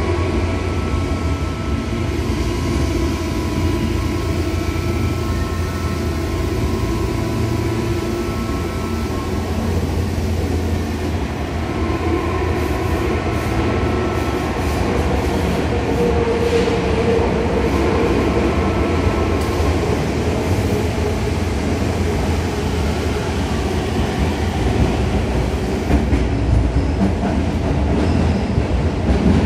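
Tobu 9000 series electric train running, heard from inside the car: a steady rumble of wheels and running gear with faint steady motor tones that die away past the middle, and wheel-on-rail clicks near the end.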